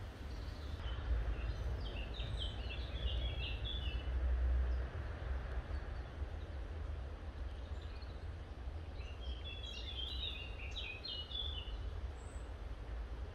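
A bird singing two quick runs of short, high chirping notes, over a steady low rumble that swells briefly in the middle.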